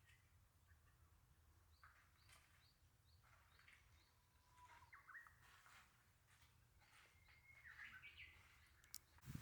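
Faint bird calls over near silence: scattered short chirps and a few brief whistled notes.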